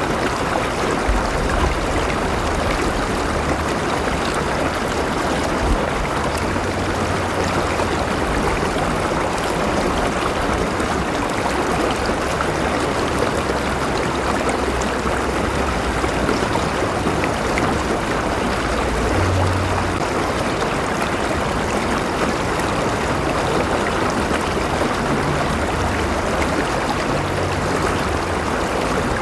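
River water flowing steadily over stones, a continuous rushing with some trickling and a low rumble underneath.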